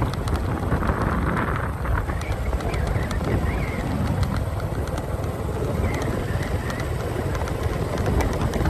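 Motorcycle riding along a road: steady engine and road noise mixed with wind buffeting on the microphone.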